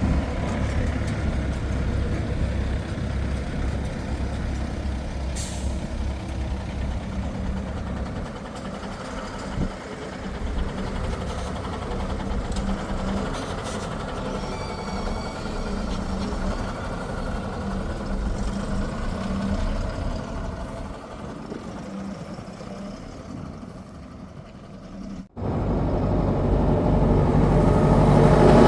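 Heavy diesel vehicle engine running, from a backhoe loader or a tipper truck: a steady low drone that is strong at first and quieter after about eight seconds. Near the end the sound cuts out for a moment and comes back louder.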